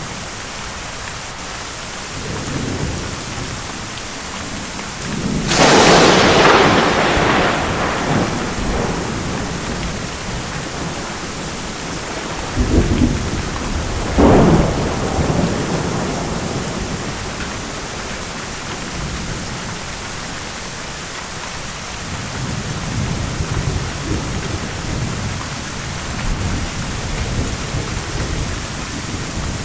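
Thunderstorm: steady heavy rain with low rolling thunder. A loud, sharp thunderclap breaks about five seconds in and rolls away over a couple of seconds, and two shorter cracks follow close together about halfway through.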